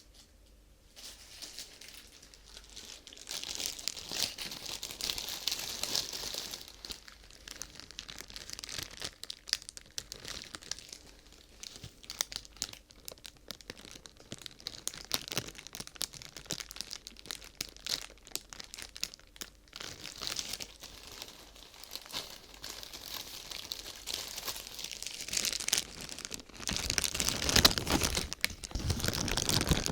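Crinkly sheet material being crumpled and rustled by hand close to the microphone, in irregular crackling waves that grow louder and fuller near the end.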